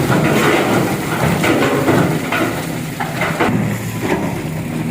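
A dump truck's engine running while a load of stone tips out of its bed, the rocks tumbling and clattering in a continuous irregular rumble of knocks.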